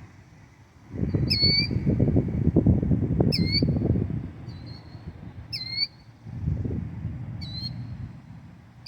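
A nesting bird giving short, sharp calls over and over, about six in all, each with a quick hooked pitch shape: alarm calls at a person near its eggs. Bursts of low rumbling noise sit under the calls and are loudest in the first half.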